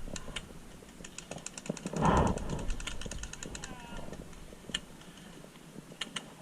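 Airsoft guns firing: runs of sharp clicks several a second, then a few single shots near the end, with a louder rushing burst about two seconds in.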